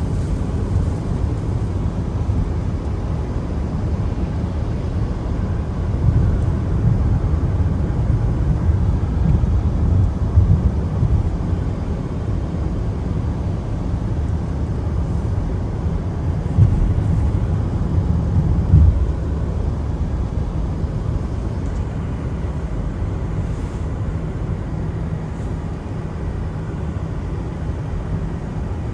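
Car driving on a wet road: a steady low rumble of tyre and road noise. It is louder and more uneven for a stretch from about six seconds in, then settles back down.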